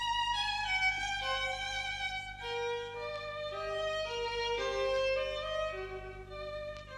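Violin music: a single melody line of held and sliding notes, over a steady low hum.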